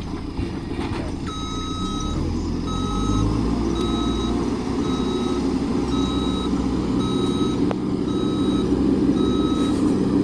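A heavy diesel road-work vehicle runs while it reverses, its backup alarm beeping steadily a little more than once a second. The alarm starts about a second in. The engine rumble swells a couple of seconds in.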